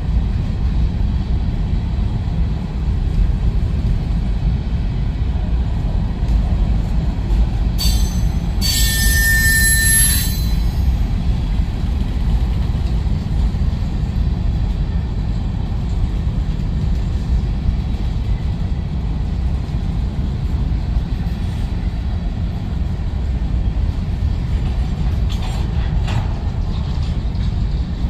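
A train rolling past with a steady low rumble; about eight seconds in, its steel wheels squeal against the rail for about two seconds in a high-pitched screech.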